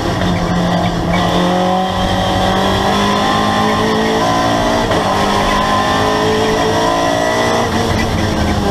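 Race car engine heard from inside the stripped, caged cockpit, running hard under load. Its note climbs over a few seconds and drops back, twice.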